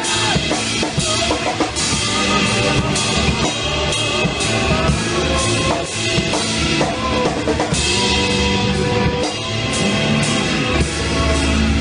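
Rock music with a drum kit playing, instrumental.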